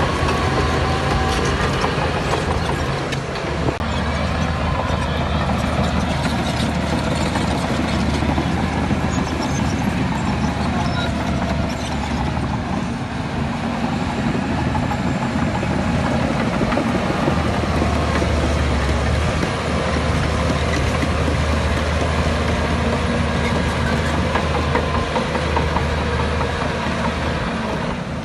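Heavy earthmoving machinery's diesel engine running steadily, a low even drone that keeps up throughout.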